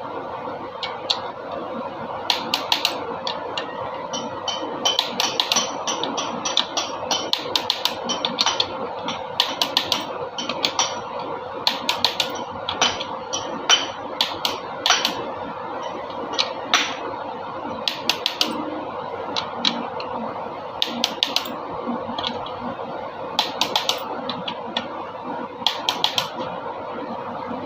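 Irregular metallic clinks and taps of hand tools and engine parts being handled during an engine overhaul, some ringing briefly, over a steady background hum.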